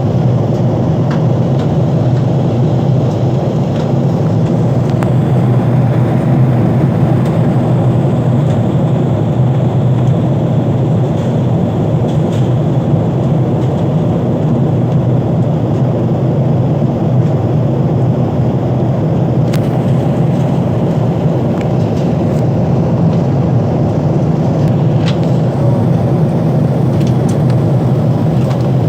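Steady low roar of a Boeing 777-300ER airliner's GE90 jet engines and rushing air, unchanging throughout, with a few faint ticks.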